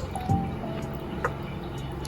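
Water running and dripping, with short plinks of drops falling into water, under background music.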